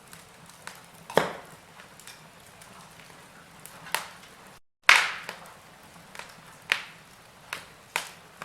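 Wood fire in a fireplace crackling, with sharp pops about once a second over a faint hiss. The sound cuts out for a moment just past the middle, and the loudest pop follows right after.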